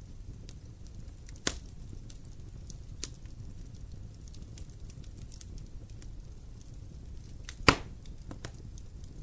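Wood fire burning in a fireplace: a low steady rumble of flames with scattered small crackles, and two sharp loud pops, the second near the end the louder.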